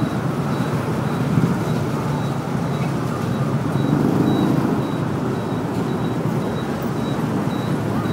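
Motorbike engine running with road noise while riding through city traffic: a steady low rumble.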